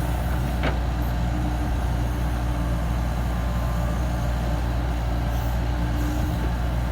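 Komatsu PC70-8 mini excavator's diesel engine running steadily under load, with a faint whine that comes and goes, and a single short click less than a second in.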